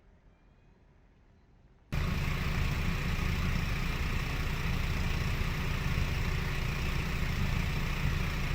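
Faint hiss, then about two seconds in an abrupt cut to the steady, loud noise of jet aircraft engines running.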